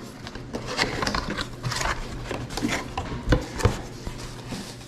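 A quick, irregular run of clicks, taps and rustles from objects being handled at close range.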